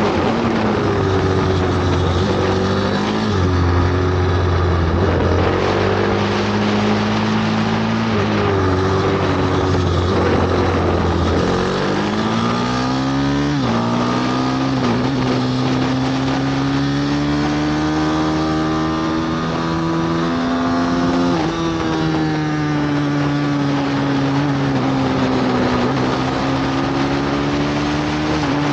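Bucci F6 pit bike engine revving hard under load, its pitch rising and falling repeatedly as it accelerates, shifts and backs off for corners.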